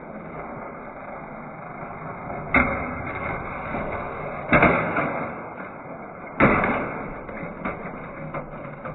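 Plastic toy monster truck with a spring-loaded jump: three sharp clacks about two seconds apart as it pops and lands, then several lighter clicks, over a steady hiss.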